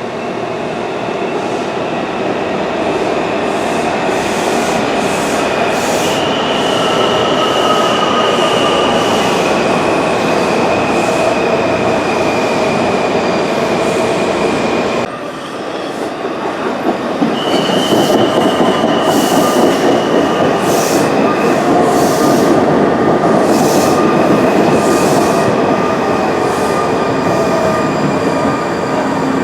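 Washington Metro legacy-series railcars running through a station: a steady rumble of wheels on rail with high-pitched squealing from the wheels. About halfway through, the sound breaks off abruptly and a similar train run begins.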